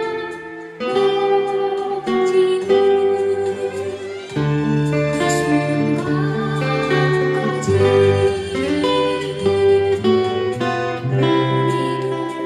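Acoustic guitar playing a folk song's melody in plucked single notes over long, held bass notes.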